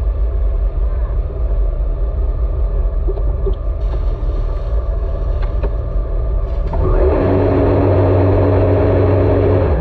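Jet ski engine running over a steady low rumble. About seven seconds in, a louder, steady engine note comes in, then cuts off abruptly.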